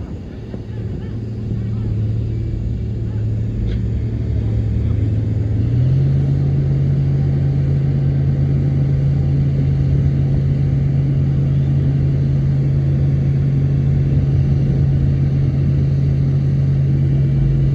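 Heavy diesel engine of an earthmoving machine running steadily. About six seconds in its speed steps up, and it then holds at the higher pitch.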